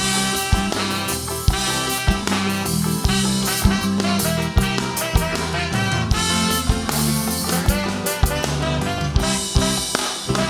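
Live calypso band playing an instrumental passage between sung verses, the drum kit keeping a steady beat of about two strokes a second under held chords.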